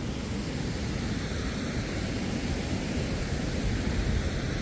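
Steady rush of a fast-flowing river in spate running through rapids below a waterfall, a continuous even roar with no breaks.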